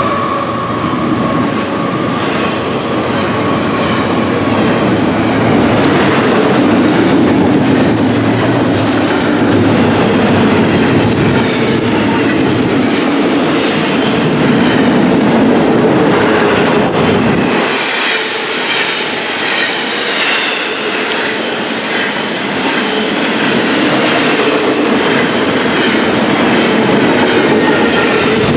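Double-stack container well cars of a freight train rolling past close by, a loud steady rumble with the clickety-clack of wheels over the rails. In the second half a higher squeal of wheels on rail comes to the fore.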